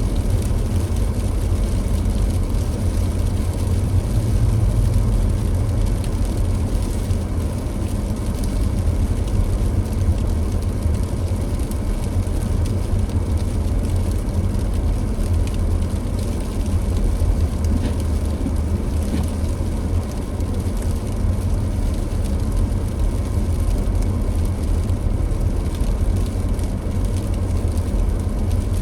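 A car driving at a steady pace: a continuous low rumble of engine and tyres on the road.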